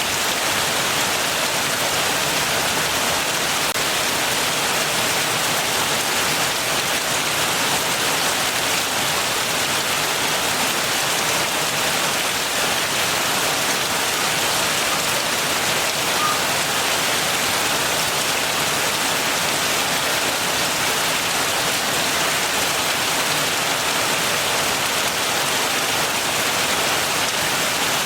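Steady heavy rain pouring down in a dense, even hiss.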